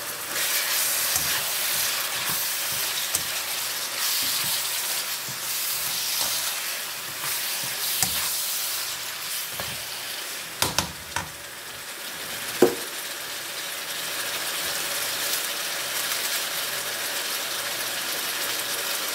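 Diced chicken and sliced onions sizzling in a nonstick pan, stirred with a plastic slotted spatula that clicks against the pan a few times around the middle.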